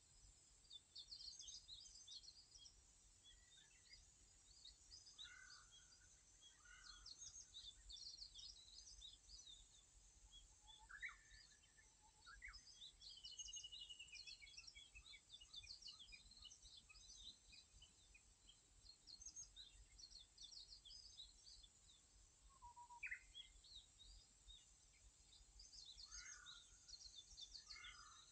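Faint birdsong: small birds calling in short, high chirps scattered throughout, with a brief rapid trill about thirteen seconds in, over a faint steady low rumble of background noise.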